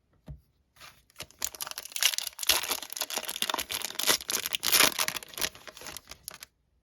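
A foil trading-card pack wrapper being torn open and crinkled in the hands, a dense crackling rustle that starts about a second in and stops shortly before the end.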